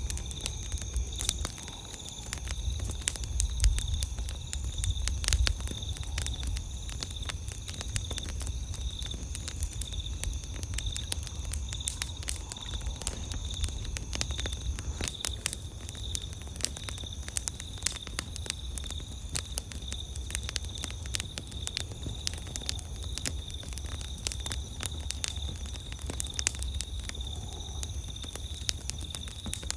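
Campfire crackling with a constant stream of irregular sharp pops and snaps. Steady high-pitched tones and a low rumble run underneath.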